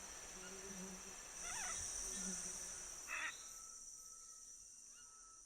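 Rainforest insect chorus, a steady high-pitched drone that swells louder in the middle, with three short animal calls over it and fading near the end.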